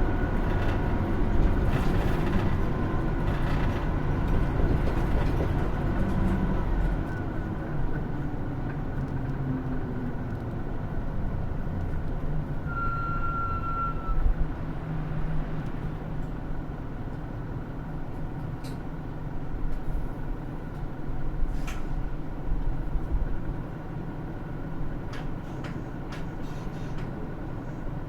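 Onboard running sound of a 2016 Hino Rainbow II (SKG-KR290J1) route bus: the diesel engine runs under load with road rumble, then drops quieter about seven seconds in. A brief high squeal comes about halfway through, and a few light clicks follow.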